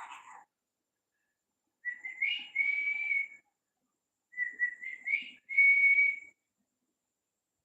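Pet parrot whistling two phrases, each climbing through a few short notes into one held note.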